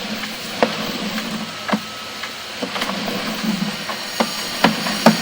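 Irregular clicks and knocks over a steady hiss, from a sewer inspection camera's push cable and reel being worked at the clean-out. The strongest knocks fall near the end.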